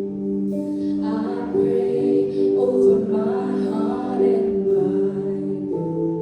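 Church worship music: long sustained chords, with voices singing over them from about a second in.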